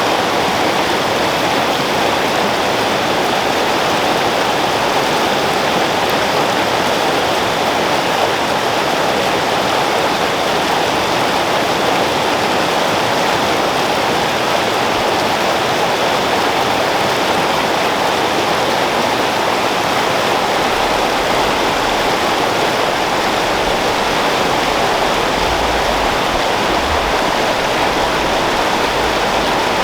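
Creek water flowing steadily, a loud, even rush. A low rumble joins about two-thirds of the way through.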